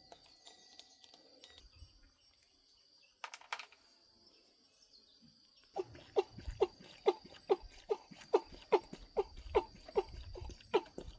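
A single clink, then from about halfway a rapid, even series of strikes, about three a second, each a sharp knock with a short falling ring, like tapping on metal during car repair work.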